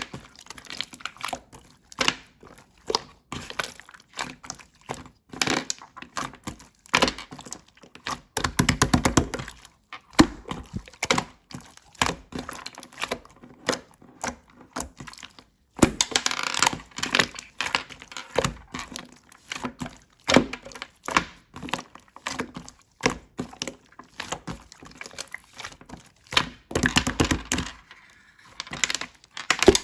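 Slime being squeezed, poked and pressed by hand, giving a steady run of sticky clicks and pops, with two stretches of rapid popping.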